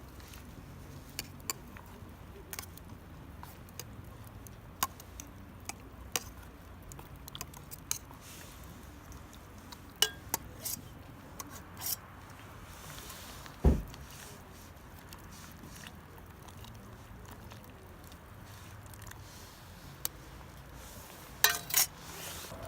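Scattered light clinks and knocks of camping gear being handled, metal and hard items tapping together at irregular moments, with one heavier thump about two thirds of the way through and a quick cluster of clinks near the end.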